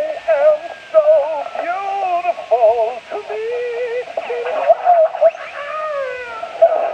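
Processed-sounding, wordless voice sounds in short warbling phrases, with quick rising and falling pitch and a fast wobble.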